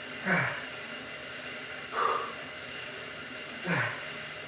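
A man breathing hard, winded from exercise. Three heavy breaths come about every second and a half to two seconds, and the first and last trail off in a short falling groan.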